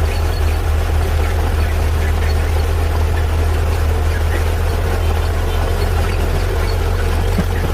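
Heavy diesel engine of earthmoving equipment running steadily, a constant low drone without revving.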